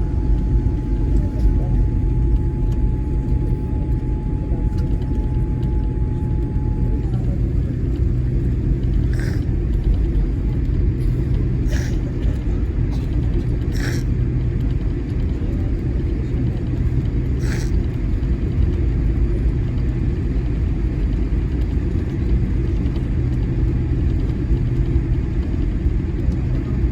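Steady low rumble inside the cabin of a Boeing 787-8 Dreamliner taxiing after landing: engines at taxi power and the roll of the airframe. A steady mid-pitched tone stops about seven seconds in, and a few brief higher sounds come through the rumble.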